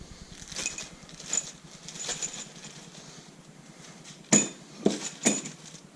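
Metal engine parts being handled and set down: light clicks and taps, then three sharp metal clanks close together near the end.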